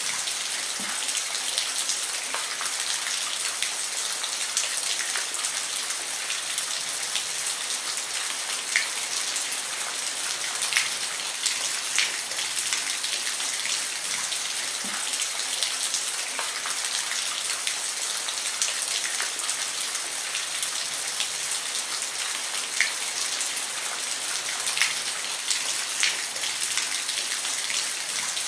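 Steady rain falling on a roof: a constant hiss with many individual drops ticking distinctly over it.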